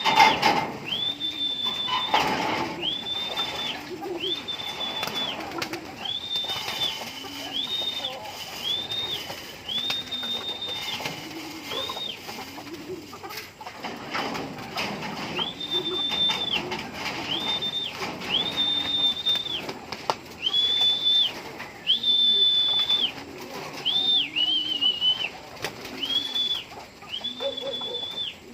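Domestic pigeons cooing, one low rising-and-falling coo after another. Over them runs a series of high, steady whistle-like notes about once a second, pausing briefly about halfway through. There is a loud clatter right at the start.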